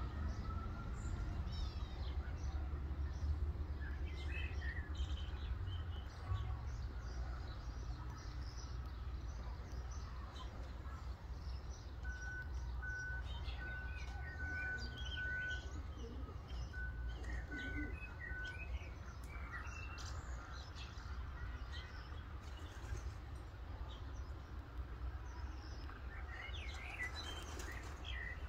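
Birds chirping and twittering in short scattered calls over a steady low rumble, with a high beeping tone broken into dashes about halfway through.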